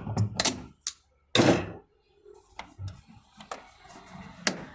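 Clicks and knocks of hands working the drain pump hose off a front-loading washing machine, with one louder, longer knock about a second and a half in and faint light clicks after it.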